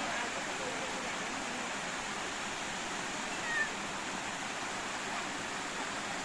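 Steady rushing of a waterfall, with one brief high squeak about three and a half seconds in.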